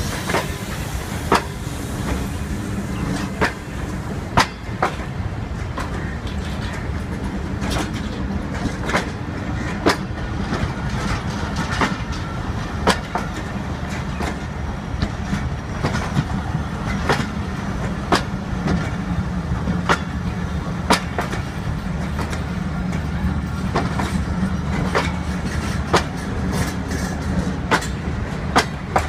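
Passenger coaches of a departing train rolling past on the rails: a steady rumble with the sharp clack of wheels over rail joints about once a second.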